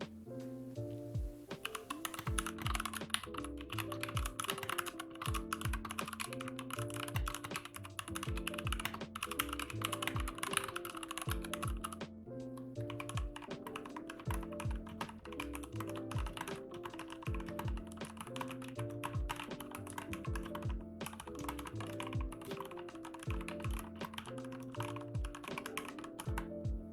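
Mechanical keyboard with Gateron Brown switches being typed on in fast runs of keystrokes, with brief pauses about twelve and twenty-one seconds in. Background music with a steady beat plays underneath.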